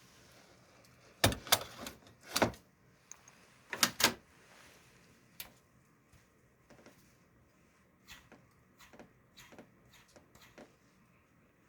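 Irregular sharp knocks and clicks of hard objects being handled. A few loud knocks come in the first four seconds, then a run of lighter clicks.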